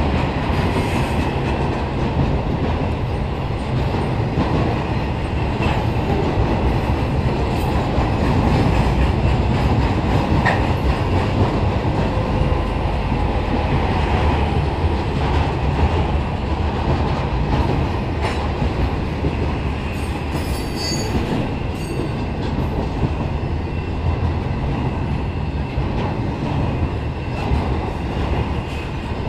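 Intermodal freight train of flatcars loaded with highway trailers rolling past close by at speed: a steady loud rumble of steel wheels on rail, with occasional clanks and a few faint high wheel squeals about two-thirds of the way through.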